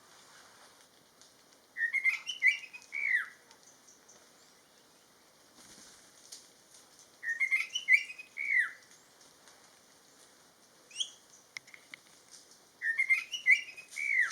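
A songbird singing the same short phrase of clear whistled notes three times, about every five and a half seconds, each phrase ending in a falling slur.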